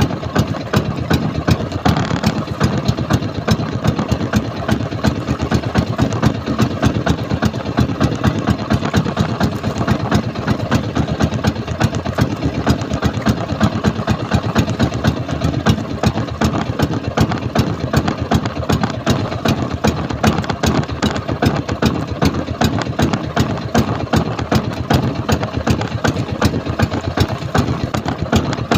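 A small fishing boat's engine running steadily at low revs, a fast, even chugging.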